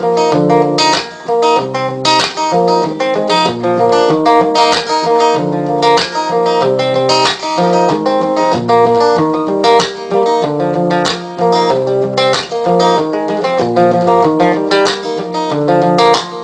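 Instrumental music: an acoustic guitar picking and strumming a rhythmic tune, with no singing.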